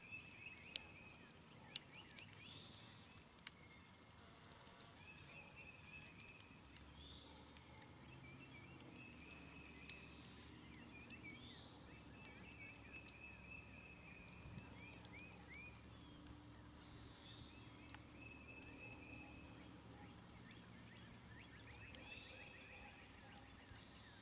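Smoldering campfire crackling faintly with scattered sharp pops, under birds singing short chirping phrases again and again. A faint low hum rises about a third of the way in and fades near the end.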